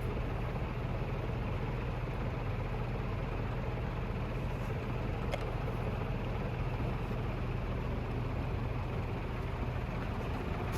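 HRS (Canarm CP56-type) industrial ceiling fan with three curved metal blades running on high speed: a steady rush of air over a low hum. At this speed the blades twist and twirl, which makes a lot of noise.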